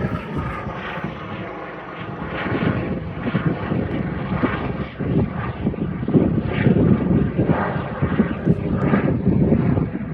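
Helicopter's rotor and engine running loud, dipping briefly about two seconds in and then swelling again.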